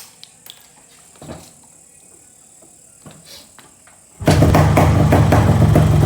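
A few faint knocks and clicks, then about four seconds in a two-stroke motorcycle engine comes in suddenly and loudly, running with a rapid, rough popping beat through its exhaust.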